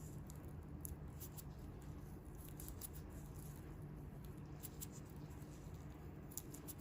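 Faint, irregular crackles and soft ticks of hands working close-up on bare feet, over a low steady hum.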